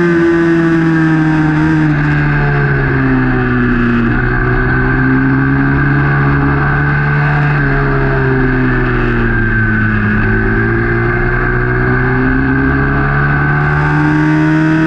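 Small racing motorcycle engine, recorded from a camera mounted on the bike itself, running hard at high revs. Its pitch drops twice, about four and ten seconds in, as the throttle comes off, then climbs back up each time as the rider accelerates.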